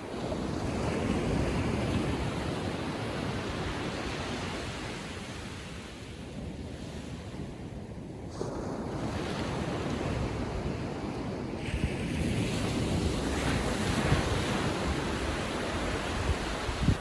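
Small ocean waves breaking and washing up the beach in slow swells, easing off midway and building again, with some wind on the microphone.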